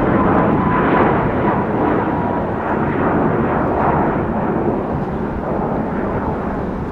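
Boeing 737 MAX 8 jet climbing out after takeoff: a loud engine roar with a faint whine that drops slightly in pitch, slowly fading as it moves away.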